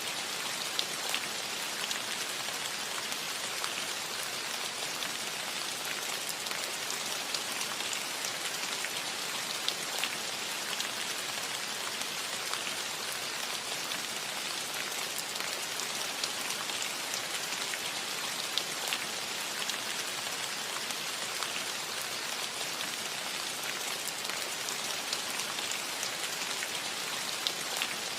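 Steady rain falling on a roof, an even hiss with scattered individual drop ticks.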